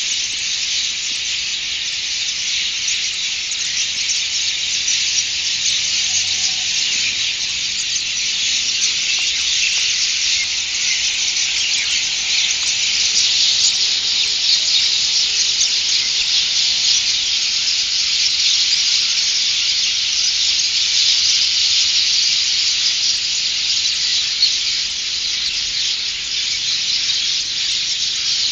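Large flock of birds chattering all at once, a dense continuous din of many overlapping high calls, growing a little louder about halfway through.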